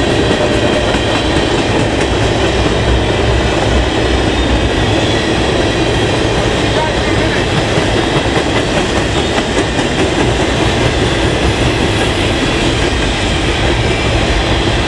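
Train cars rolling past, with loud, steady wheel-on-rail noise.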